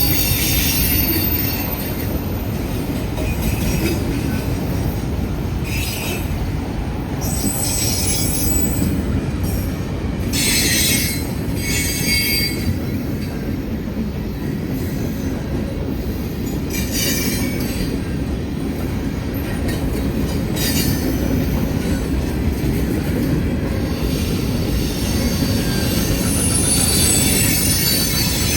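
Freight train cars rolling past with a steady low rumble, the wheels squealing in short high-pitched bursts every few seconds.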